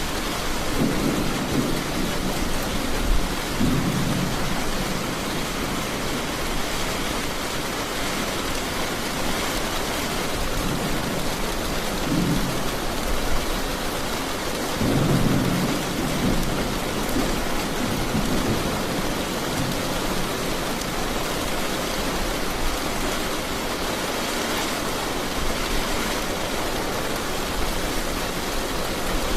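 Heavy rain falling steadily, with low rolls of thunder rumbling in a few seconds in and again around the middle.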